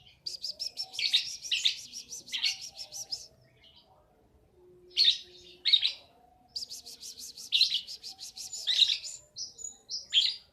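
A two-month-old lovebird chirping: two long runs of rapid high chirps, about ten a second, with a few louder single calls between them.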